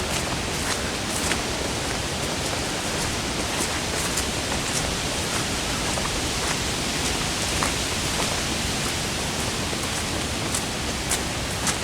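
Steady rain, a constant hiss with scattered individual drops tapping close by.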